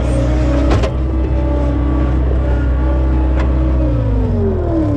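John Deere skid steer's engine running steadily under the operator, with a knock just under a second in. Near the end the revs fall away in a smooth downward glide.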